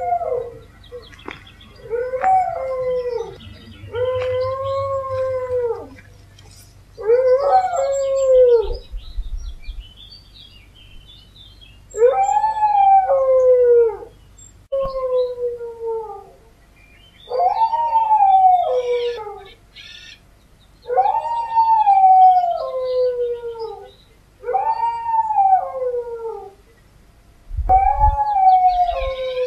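A dog howling over and over: about ten howls of one to two seconds each, every one rising a little and then falling in pitch, with short pauses between them.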